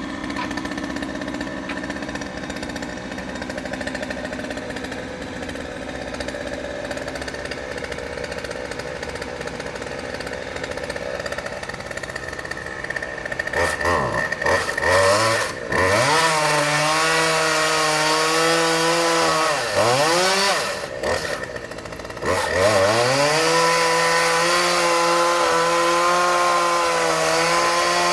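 Gas chainsaw idling, then revved hard about halfway through. It drops back twice and otherwise runs at steady full throttle, its pitch wavering slightly as it cuts.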